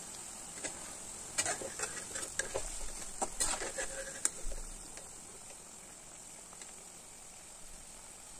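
Medu vadas frying in hot oil with a steady sizzle. From about a second and a half in until about four and a half seconds, a metal skimmer scrapes and knocks against the pan as the vadas are turned and lifted out. After that the sizzle goes on more quietly.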